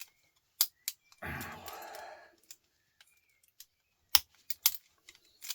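Sharp clicks and clinks of small salvaged parts being handled and dropped on a workbench during an electronics teardown, with a brief rustling scrape about a second in.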